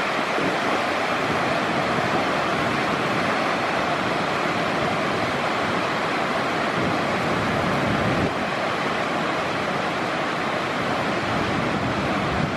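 Ocean surf washing onto a beach in a steady rush, with wind gusting on the microphone.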